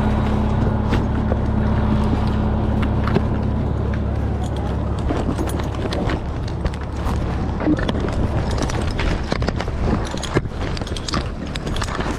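Fire engine's engine running with a steady low drone; a higher hum fades out about four seconds in, and scattered knocks and rattles follow.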